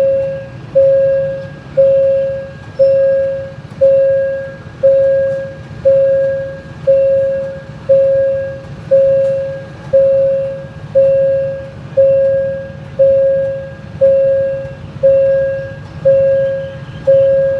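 Railway level-crossing warning bell ringing about once a second, each strike sharp and fading, over the steady low rumble of a diesel locomotive's engine.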